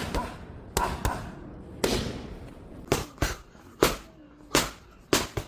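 Boxing punches striking a target, about ten sharp smacks at an uneven pace, some landing in quick one-two pairs.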